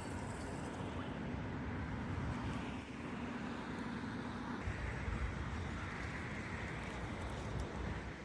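Road traffic: cars driving past, a steady rush of tyre and engine noise that changes character about halfway through.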